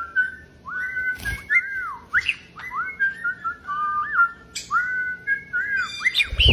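Whistling: a quick run of clear, short notes sliding up and down, phrase after phrase, with a low thump about a second in and another at the end.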